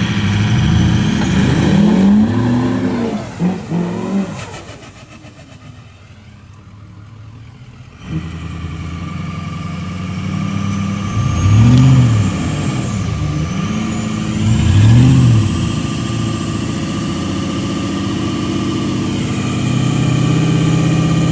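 Engines revving under load in several surges, about two, twelve and fifteen seconds in, with a steady engine note between and a quieter lull early on. A diesel pickup and the stuck Can-Am 850 XMR side-by-side are straining against a tow strap during the recovery pull, and a thin high whine slowly rises through the second half.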